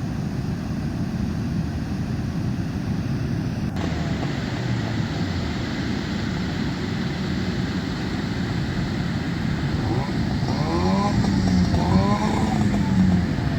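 Steady rushing noise of surf and wind. A fishing boat's engine revs up and falls back twice near the end.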